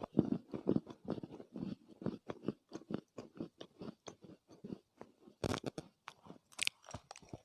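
Chewing of soft Chinese loess, a dense run of small crunches several a second, with louder bites about five and a half and six and a half seconds in.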